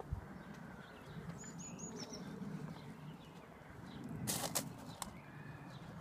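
Outdoor ambience with a steady low rumble; a small bird gives three quick high chirps about a second and a half in, and two sharp clicks come a little after four seconds in.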